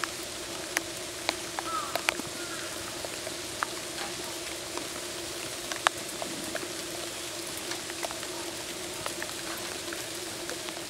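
Steady rain falling on an enclosure, with scattered sharp drips and taps, over a steady low hum.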